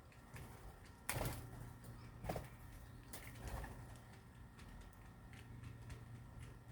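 Birds calling: a few short calls, the loudest about a second in and others a second or two later, over a low steady hum.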